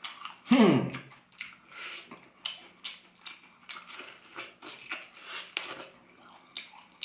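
Close-up chewing of crunchy fried chicken with a potato-starch coating: many short crisp crackles and mouth clicks. About half a second in, the eater gives one short vocal hum that falls in pitch, the loudest sound here.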